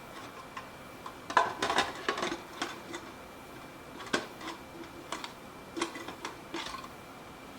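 Hard plastic humidifier parts clicking and knocking together as a tray is fitted into the top section: a quick cluster of sharp clicks about a second and a half in, then single clicks roughly once a second.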